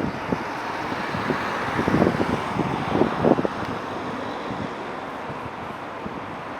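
Steady rushing jet noise from a Boeing 747-400 freighter's four GE CF6-80C2 turbofans. Wind buffets the microphone in gusts about two and three seconds in.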